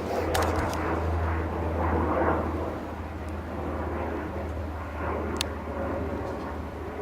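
Steady drone of a distant airplane flying overhead, swelling and easing slightly, with a few sharp clicks about half a second in and one more near the end.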